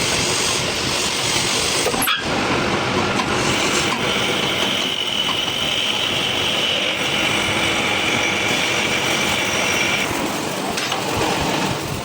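Steady, loud metalworking machine noise in a shaft-repair workshop, with a high whine from about four to ten seconds in and a brief break about two seconds in.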